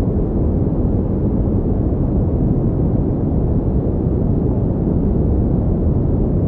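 Pink noise playing steadily: an even, deep rush with no changes in level or pitch.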